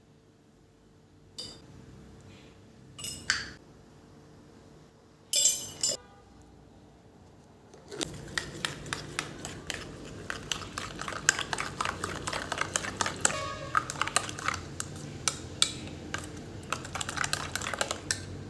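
Dishes and cutlery clinking: a few separate clinks, then about eight seconds in a long run of rapid clattering as they are handled together.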